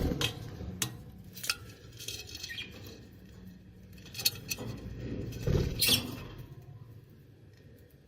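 Scattered light scratching and rustling with a few sharp taps and clicks, loudest in a scrape about six seconds in, then fading.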